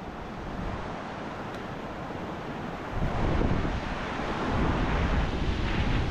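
Wind noise buffeting the action camera's microphone over a steady rushing background, buffeting harder from about three seconds in.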